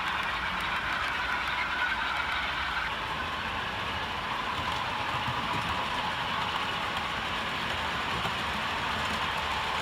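OO gauge model train running on the layout, a steady rolling noise of model wheels and motor on the track.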